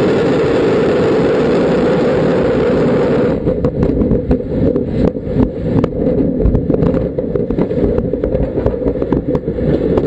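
Rocket engine roar at liftoff, a loud steady rumble that about three seconds in turns rougher and crackling as the rocket fails and explodes over the launch pad.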